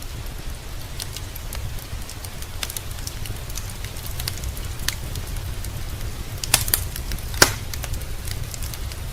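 Wood fire crackling in a fireplace: scattered sharp pops and snaps over a steady low rumble, with two louder pops close together about two-thirds of the way through. Rain hiss blends into the background.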